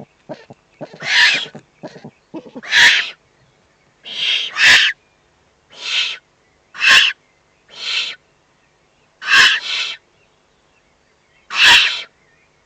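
Eurasian eagle-owl chicks at the nest giving harsh, hissing begging calls, about ten short rasps roughly a second apart, as they are fed. A few faint clicks come in the first two seconds.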